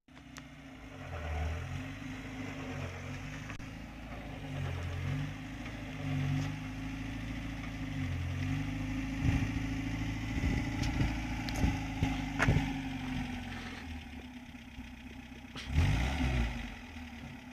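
Morris Oxford estate car's engine running at low speed, a steady note with a low pulse recurring every second or two. Sharp clicks and knocks come through the middle, and a heavy thump near the end.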